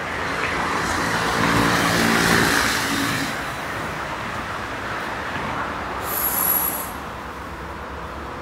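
Electric train moving through the station with a rushing noise and a steady motor tone that swell about two seconds in, then a short hiss of air with a thin high whistle about six seconds in.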